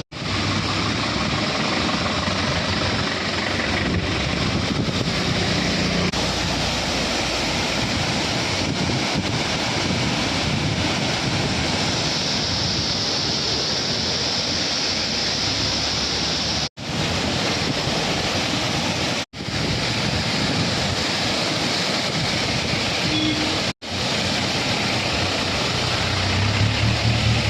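Steady rushing of rainwater pouring down a monsoon waterfall off the hillside. The sound cuts out for an instant three times.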